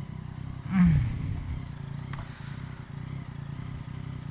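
Yamaha MT-09's three-cylinder engine idling through an Akrapovic carbon full exhaust, with a quick throttle blip about a second in that falls back down to idle. A single sharp click follows about a second later.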